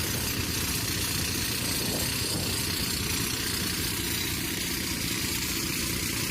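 Eicher Pro 6025T tipper truck's diesel engine running steadily.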